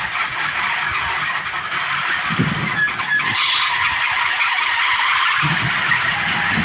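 Kolecer, a wooden wind-driven propeller on a pole, spinning fast in strong wind with a continuous whirring drone, broken by irregular low rumbles from the wind.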